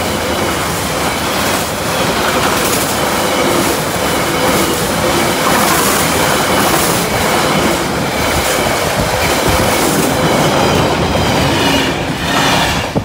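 Loaded rail-carrier wagons of a freight train rolling past at speed over a level crossing, with a loud, steady rush of wheel and track noise and irregular clattering of wheels over the rails. There is a faint ringing from the wheels and rails.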